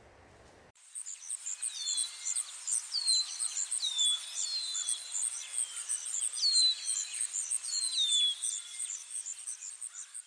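Natural soundscape of birds and insects that starts suddenly about a second in. A fast, high-pitched, even chirping runs throughout, and a bird gives a sharp falling whistle every second or so.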